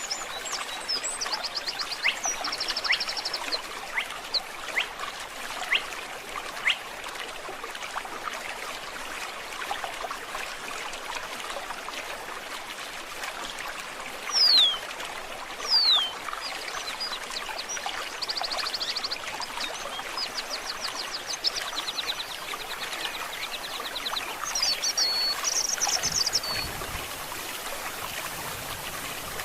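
A stream trickling steadily with small splashes, and birds singing over it: fast high trills near the start and again in the second half, and two loud downward-sweeping whistles about halfway through, which are the loudest sounds.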